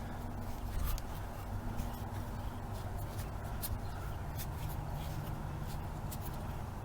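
Small parts being handled by hand: scattered light clicks and rustling over a steady low hum.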